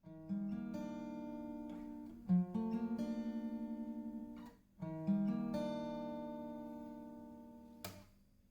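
Solo acoustic guitar playing slow chords. Each chord is struck and left to ring and fade: three of them, about two seconds apart, with a brief scratch on the strings near the end.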